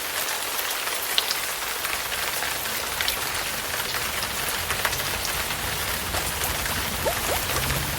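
Steady hiss of water falling onto a surface, with scattered drip clicks. Several short rising plinks come near the end, like drops landing in standing water.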